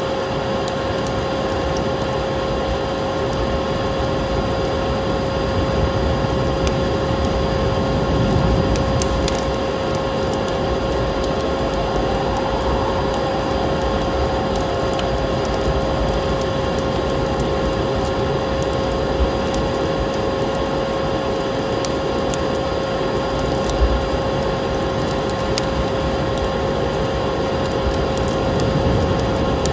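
Steady vacuum cleaner drone with a constant hum, and a wood fire crackling over it with scattered sharp pops.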